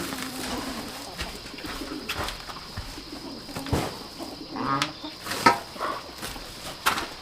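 Low cooing bird calls, repeated a few times, among scattered clicks and knocks.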